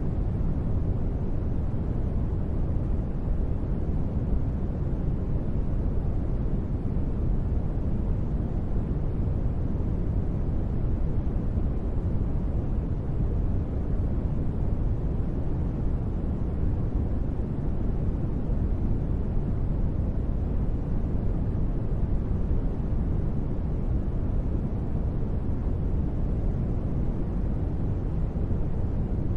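Steady synthetic ambient noise, deep and rumbling, with most of its weight low down and only a little hiss on top; it does not change.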